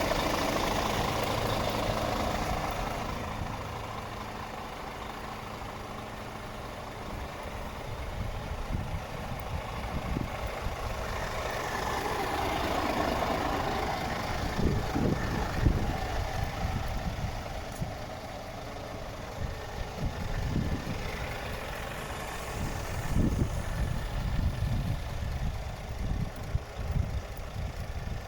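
Scania R440 truck's 13-litre inline-six diesel engine idling steadily, with irregular low thumps and rumbles over it from about eight seconds in.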